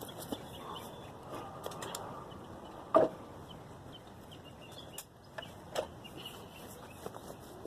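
A few sharp knocks and clicks over a steady background, the loudest about three seconds in and another near six seconds.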